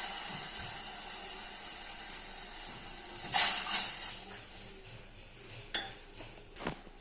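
A pot hissing on the stove, the sizzle dying away over the first few seconds. Then a utensil clatters twice against cookware about three and a half seconds in, followed by a couple of sharp clinks near the end.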